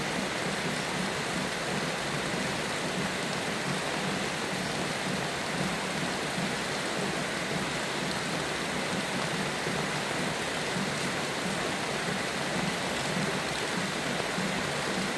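Steady, even rainfall, a continuous hiss with no change in strength.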